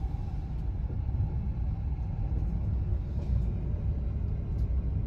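Steady low rumble of a Joetsu Shinkansen bullet train running, heard from inside the passenger cabin.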